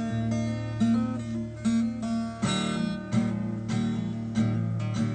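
Acoustic guitar played alone, plucked notes in a repeating pattern with a new attack a little under once a second and a sustained low bass note beneath.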